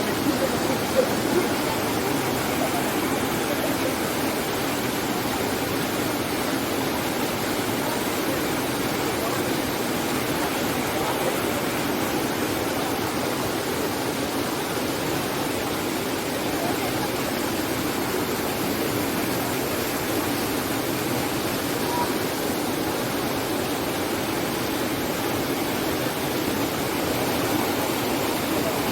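Steady rush of water pouring over the rocks of a small waterfall, an even, unbroken noise.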